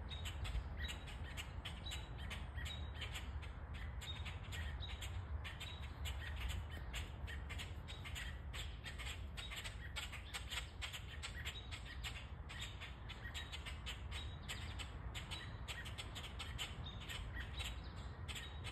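Birds squawking and chirping in quick, repeated short calls, over a low steady rumble.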